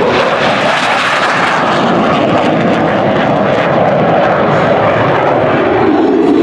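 Loud, steady jet noise from an F-15 Eagle's twin jet engines as the fighter flies a demonstration pass.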